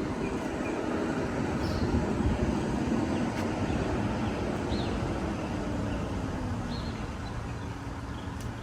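Semi truck's diesel engine running under light throttle while the truck is maneuvered at low speed. Its pitch rises over the first couple of seconds, then slowly eases back down.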